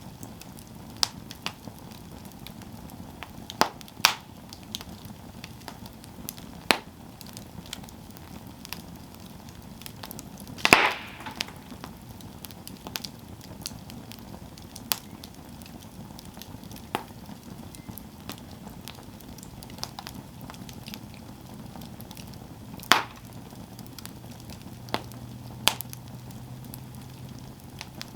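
Campfire burning, the wood crackling with sharp, irregular pops over a soft steady rush. One louder, longer crackle comes about eleven seconds in.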